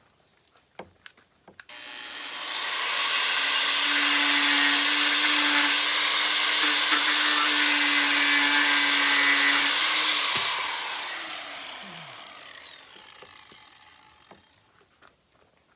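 An electric grinder in a metalworking shop is switched on, spins up and runs steadily with a loud hiss for about eight seconds. It is then switched off and coasts to a stop, its hum falling in pitch as it winds down.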